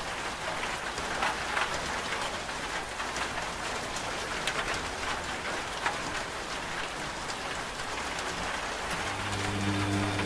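Steady rain falling on a surface, a continuous hiss dotted with individual drop hits. About nine seconds in, a washing machine's steady motor hum comes in beneath the rain.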